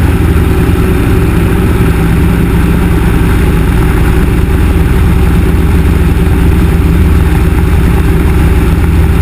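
Yak-18T light aircraft's nine-cylinder radial piston engine and propeller running steadily, loud and even, heard from inside the cabin.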